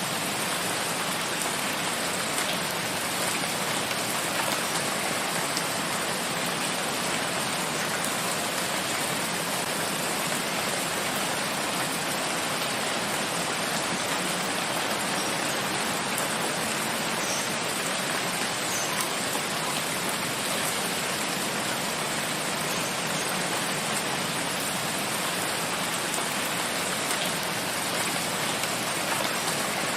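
Steady rain falling in a forest, an even hiss of rain with scattered individual drops ticking.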